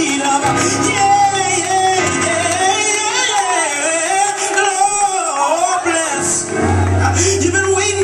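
Recorded gospel song: a voice sings long, wavering runs without clear words over sustained low bass notes, with a deeper bass note coming in near the end.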